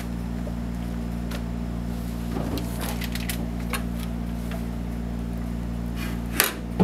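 Steady low electrical hum of a running refrigerator, with scattered light clicks and knocks from items being handled inside it, and a sharper knock near the end.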